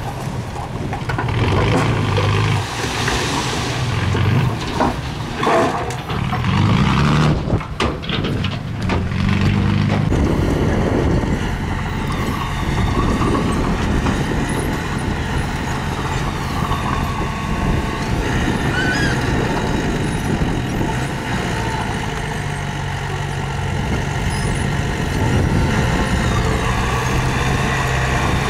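Diesel engines of heavy earth-moving machinery running, uneven and noisier for about the first ten seconds, then settling into a steady drone.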